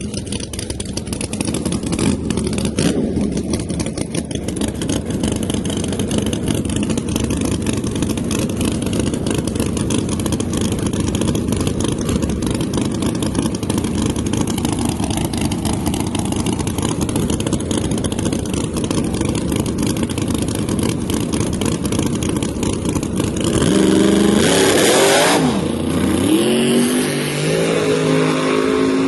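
Drag-race car engines running loudly and steadily. About 24 seconds in, a louder engine comes in, its note jumping up and down in steps.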